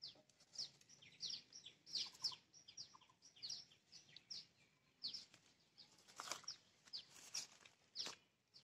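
Small birds chirping: many quick, high chirps, each sliding down in pitch, repeated throughout. A few sharp clicks come in the second half.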